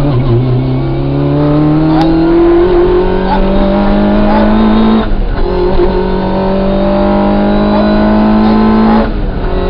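Rally car engine under hard acceleration, its pitch climbing steadily, with a quick upshift about five seconds in and another near the end.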